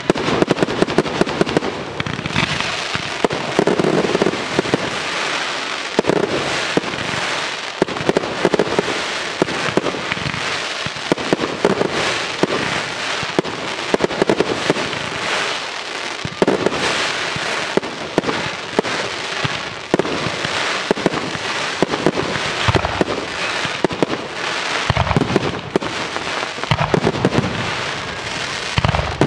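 Fireworks display: a continuous barrage of aerial shell bursts with dense crackling and many sharp bangs, without a pause.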